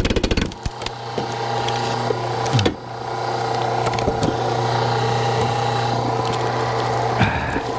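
Hydraulic log splitter running with a steady motor and pump hum, with wood cracking and splintering at the very start. The hum dips briefly in pitch twice, once a few seconds in and again near the end, as the splitter takes load.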